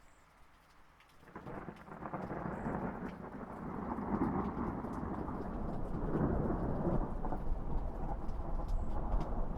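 Rain falling with a long roll of thunder that starts about a second in, grows louder and keeps rumbling.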